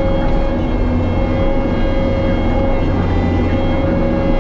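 Diesel engine of compact earthmoving equipment running steadily at working speed, with a steady whine over a low rumble.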